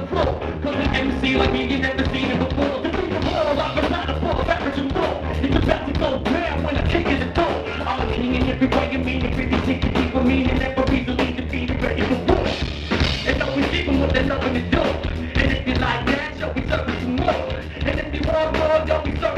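A live band playing a song, with a drum kit keeping a steady beat under bass and guitar.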